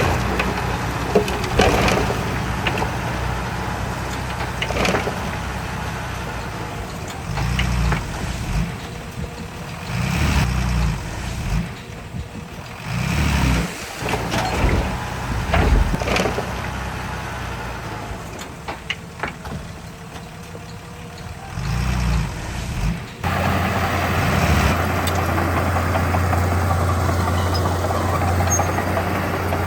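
Diesel engines of heavy earthmoving machinery running, rising in repeated surges of revving with scattered clanks and knocks. About three-quarters of the way through the sound changes abruptly to a steady engine drone.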